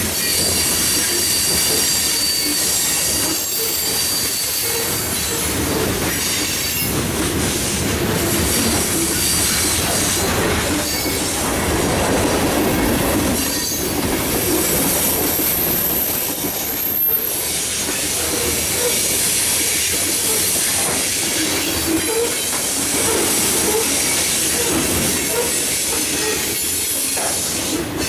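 Freight cars of a Norfolk Southern mixed freight train rolling past: a steady, loud rolling noise of steel wheels on rail. Now and then there is a thin, high wheel squeal.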